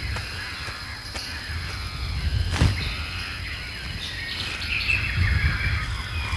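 Outdoor ambience of birds chirping and calling, crow-like caws among them, over a steady low rumble, with a single sharp knock about two and a half seconds in.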